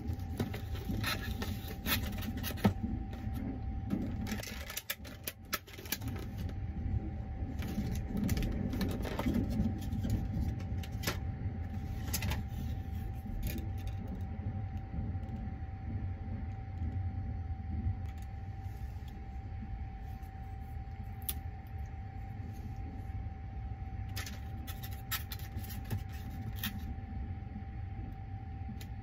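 Steady low rumble of the Sunrise Izumo sleeper train running, heard inside a small cabin, with a faint steady hum. Over it, paper and plastic wrapping crinkles and rustles as a boxed bento is unwrapped and opened, with more brief rustles and clicks near the end.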